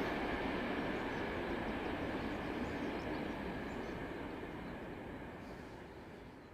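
Train on the Semmering railway passing and receding: a steady rumble and rail noise that fades away over the few seconds.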